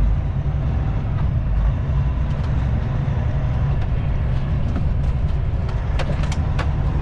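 Kenworth T660 semi truck's diesel engine running steadily while driving, heard from inside the cab, with a few sharp clicks about six seconds in.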